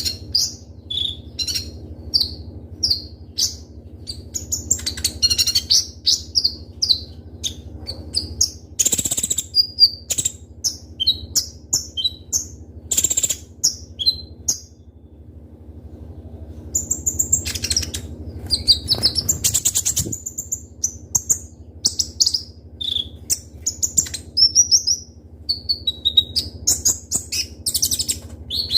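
A kolibri ninja (van Hasselt's sunbird) singing hard in rapid, sharp, high-pitched chirps and short trills, with a brief pause about halfway through. A low steady hum runs underneath.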